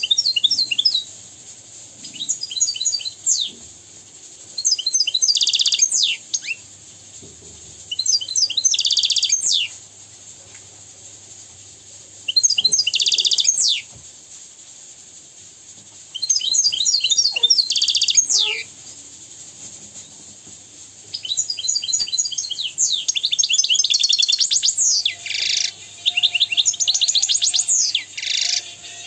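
European goldfinch singing: phrases of rapid, high twittering and trills, each lasting one to two seconds with short pauses between, coming closer together in the last third.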